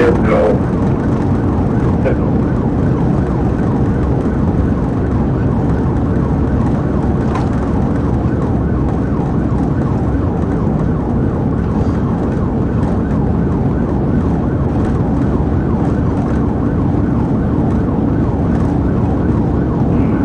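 Police patrol car at speed in a pursuit, with steady engine and road noise and its siren wailing throughout.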